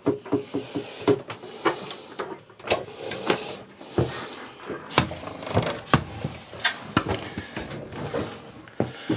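Irregular knocks and clicks of footsteps and handling noise moving through a boat's cabin, with a quick run of light ticks in the first second.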